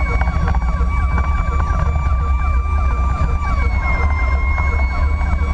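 Fire engine siren sounding on an emergency run: a held high tone that dips slightly in pitch about three and a half seconds in, layered over a rapid repeating yelp, with a heavy low rumble of the engine and road underneath.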